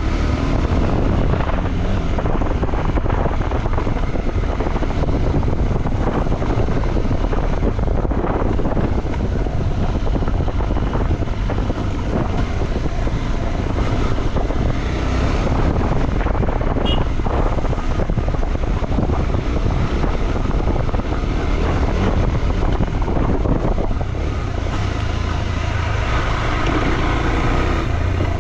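KTM 390 Adventure's single-cylinder engine running as the motorcycle rides along, with wind buffeting the microphone.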